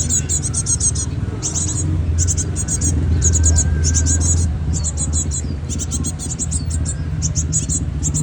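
Cinereous tit (gelatik batu) chicks chirping: quick clusters of very high, thin chirps repeated over and over, over a steady low rumble.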